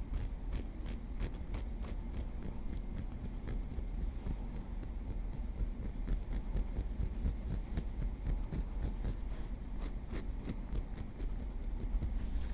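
Small wooden stick making an irregular run of light, crisp clicks, several a second, with a denser flurry about ten seconds in.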